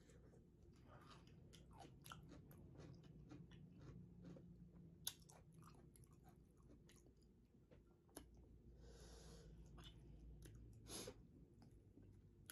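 Faint close-miked chewing of a bite of pickle: wet crunching and mouth clicks, with a brief breathy hiss about nine seconds in.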